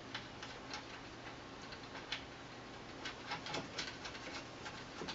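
Faint, irregular small clicks and taps of a lock nut being threaded and snugged onto a cable gland fitting through the wall of an electrical control box.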